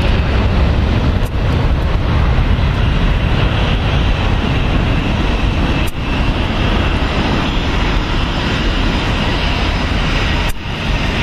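Jet airliner engine noise, a steady loud rumble, with wind on the microphone; it dips briefly three times.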